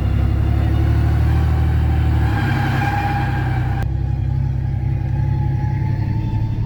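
A mega mud truck's engine pulling under load, heard from inside the cab as a steady low drone whose note shifts about two seconds in, with a faint whine above it. A hiss of higher noise cuts off suddenly a little past the middle.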